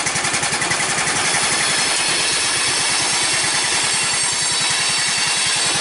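Small gasoline engine idling real low just after a cold start, a rapid, even run of firing pulses; the cold may make it stall.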